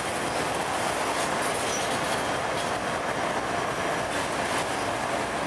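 Freight train of autorack cars rolling past: a steady rumble and rattle of steel wheels on rail, with a few faint, brief high squeaks.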